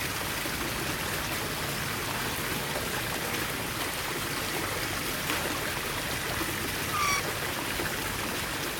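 Steady rushing noise like running water, with one short bird call about seven seconds in.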